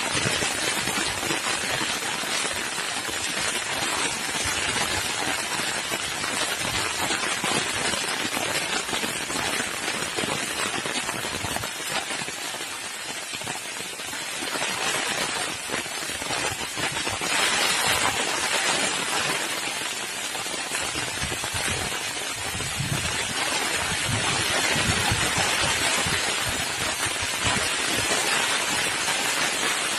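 Heavy rain falling steadily, a dense hiss of drops on surfaces that swells and eases a little in intensity.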